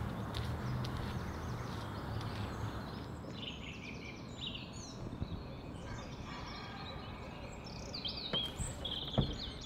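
Small birds chirping and twittering, beginning about three seconds in, over a steady low outdoor rumble.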